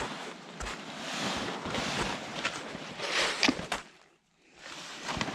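Crunching and scraping of people and towed gear sleds moving through wet, sticky snow and brush, with irregular crackles. It goes briefly quiet about four seconds in.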